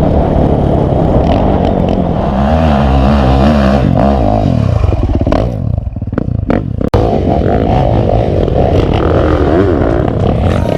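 Off-road vehicle engine running hard, its pitch rising and falling as it revs, with a short break in the sound about seven seconds in.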